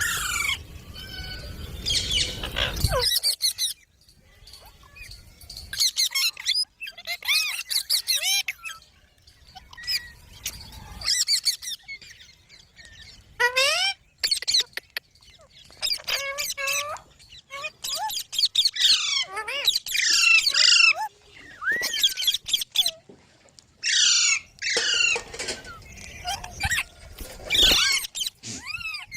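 Green parrots squawking and chattering in repeated bouts of harsh calls that slide up and down in pitch, with short pauses between bouts. A low rumble runs under the calls for the first three seconds.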